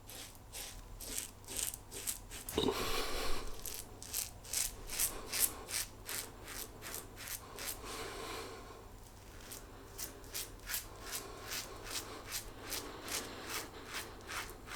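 Safety razor (Simbatec quad edge, fitted with two double-edge blades) scraping through lathered stubble in short, quick strokes, about two to three a second, with a brief pause about eight seconds in.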